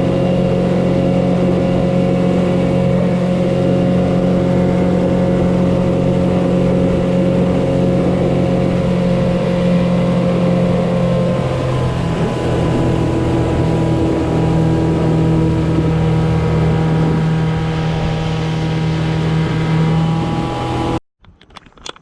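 Mercury 15 hp two-stroke outboard running steadily at speed, pushing the skiff. Its pitch shifts slightly about halfway through, and the sound cuts off suddenly near the end.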